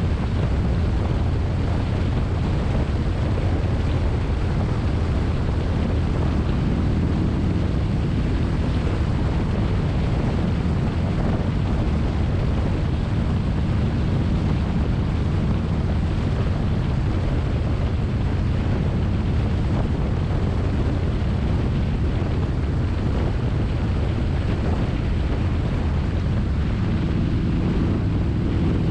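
Motorcycle engine running at a steady pitch while riding, with heavy wind noise on the microphone. Near the end the engine note shifts a little higher.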